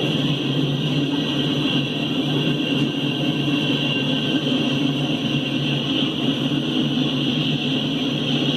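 Freight train with three EMD SD70MAC diesel-electric locomotives, running steadily: a low engine drone with a steady high whine over it.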